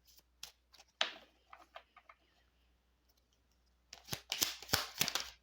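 Tarot cards being shuffled by hand: a few scattered card snaps and slides, then a quick run of card clicks starting about four seconds in.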